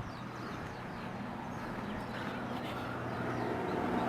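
Outdoor ambience: a few faint bird chirps over a steady engine hum that grows louder toward the end.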